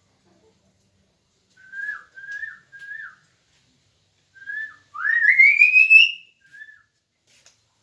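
A person whistling to coax caged birds to sing: three short whistled notes, then a single note, then a louder, longer whistle rising in pitch about five seconds in.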